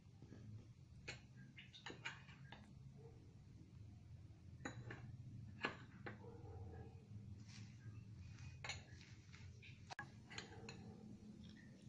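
Faint, irregular clinks and scrapes of a spoon against a mixing bowl as thick pakora batter is stirred, with water being worked in little by little.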